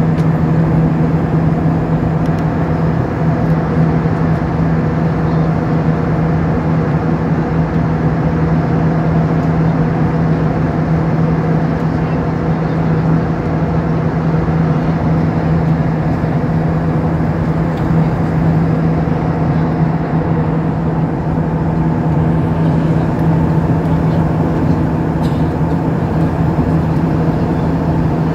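Airbus A320 cabin noise in flight: its IAE V2500 engines and the airflow make a steady loud drone with a constant low hum and no change in pitch.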